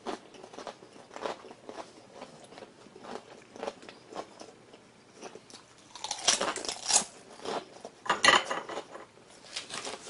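A person chewing a bite of crispy deep-fried wonton, the fried wrapper crunching in irregular crackles that are loudest in two spells past the middle.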